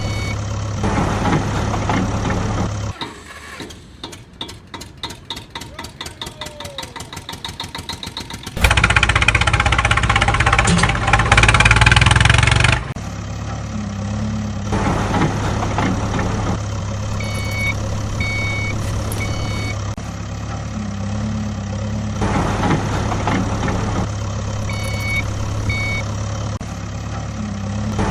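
Heavy vehicle engine idling, with reversing beeps now and then. A few seconds in, the engine cranks with a run of quickening clicks, then runs loudly for about four seconds before dropping back to a steady idle.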